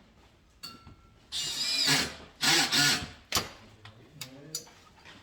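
Power drill-driver running in two short bursts, its motor whine shifting in pitch, with a few sharp clicks of handling between.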